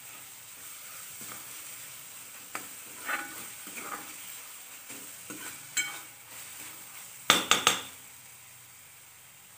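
Chopped tomatoes and onions sizzling in oil in a kadhai while a metal spoon stirs them, scraping and clinking against the pan; the loudest sounds are three quick clinks of the spoon on the pan about seven seconds in. The salted tomatoes are being sautéed until soft.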